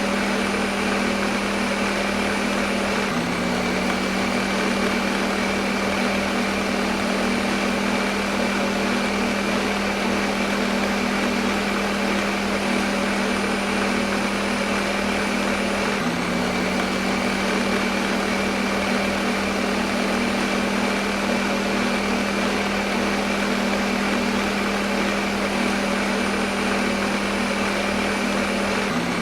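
Electric kitchen blender running continuously at a steady speed: a constant motor hum under a broad whirring noise, used as white noise. Its hum shifts slightly about 3 seconds and 16 seconds in.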